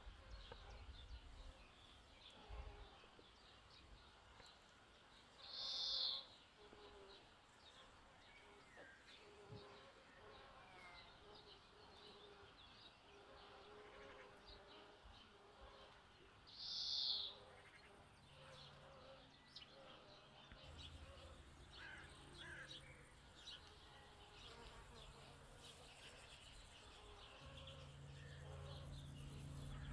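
Faint birdsong with scattered chirps, broken twice by a louder high-pitched call about a second long, some eleven seconds apart, over a faint buzzing of flying insects.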